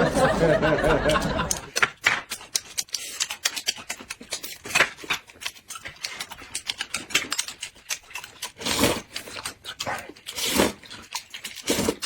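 Close-miked mukbang eating sounds: a rapid, irregular string of wet chewing clicks and mouth smacks, with a few louder bites. A short burst of laughter opens it.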